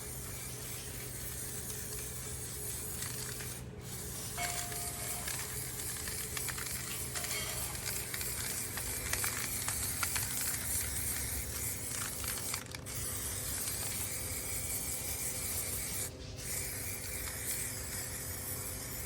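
Aerosol spray paint can hissing steadily as paint is sprayed onto a metal stove, broken by three brief pauses.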